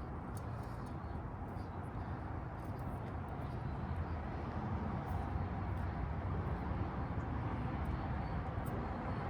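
Steady low rumble with a few faint, light clicks scattered through it.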